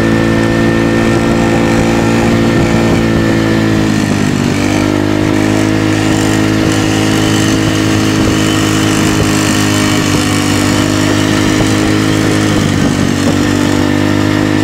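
Small single-cylinder motorcycle engine running loudly at fairly steady revs. The note dips briefly about four seconds in and again near the end, as the throttle is eased and picked up again.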